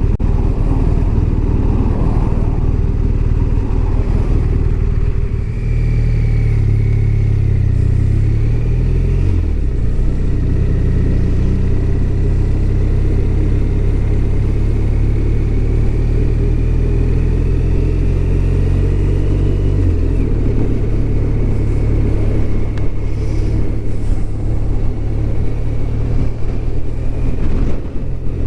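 BMW R1200RT's flat-twin engine running while the bike is ridden. The engine note rises and falls several times, with sudden drops in pitch about ten seconds in and again about twenty seconds in.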